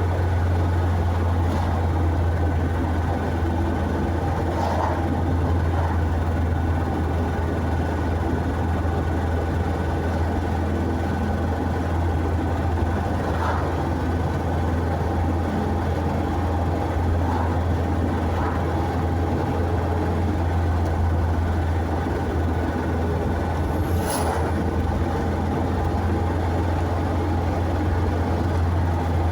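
A road vehicle driving: a steady low rumble of engine and road noise that holds level throughout, with a few faint brief clicks, the clearest about 24 seconds in.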